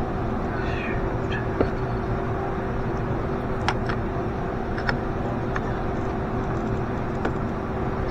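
C5 Corvette's V8 idling steadily with a constant hum, while a few light metallic clicks of parts or tools being handled sound now and then.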